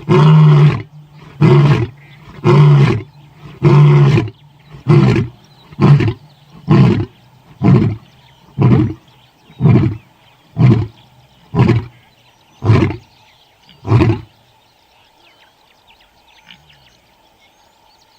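Male lion's roaring bout: a few long, deep roars, then a run of shorter grunts about once a second that end about fourteen seconds in. Faint bird chirps are heard in the quiet afterwards.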